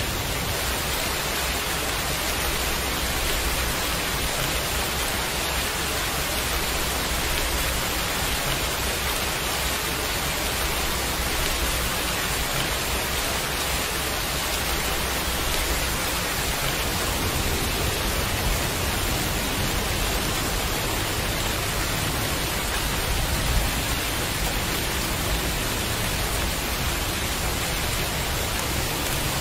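Steady heavy rain: an even, unbroken hiss of many drops.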